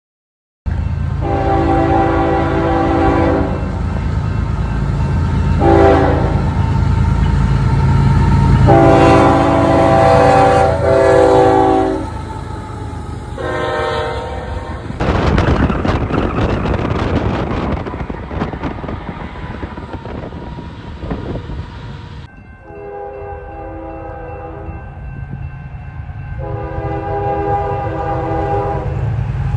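Locomotive horn sounding a series of blasts, long and short, over the low rumble of the engine, then the rushing clatter of the train passing by. After an abrupt change, the horn sounds two more long blasts over the rumble.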